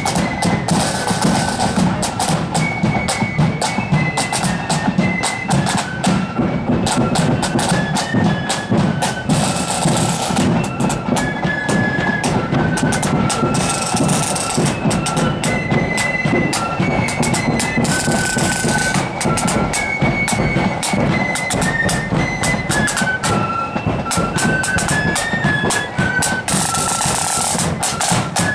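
Marching flute band playing a tune, the flutes carrying a high stepped melody over a steady beat of snare and bass drums, with cymbal crashes every few seconds.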